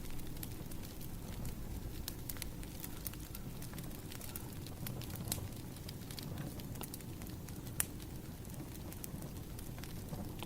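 Burning firewood crackling: a steady low rumble of the fire with irregular sharp snaps and pops, one louder pop about two-thirds of the way through.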